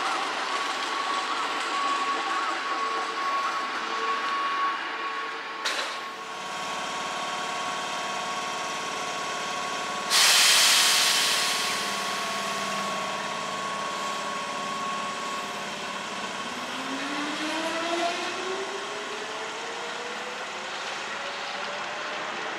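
A Keihan electric train standing at a station platform. A sharp knock comes about six seconds in, and a loud burst of air hiss about ten seconds in fades over a couple of seconds. Near the end, the traction motors' hum rises steadily in pitch as the train starts to move off.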